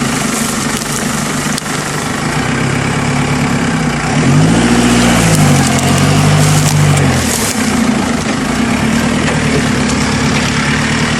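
Car engine idling, then revving up about four seconds in, holding higher revs for about three seconds and dropping back to idle. This is the car being pushed to climb over a ledge on rough, muddy ground.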